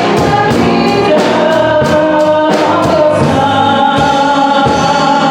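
Gospel choir singing with a band and a steady beat; the beat drops out about halfway, leaving sustained sung chords.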